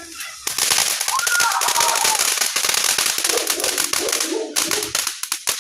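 Fireworks crackling: a loud, dense run of rapid pops that thins out and breaks off near the end, followed by a few last pops.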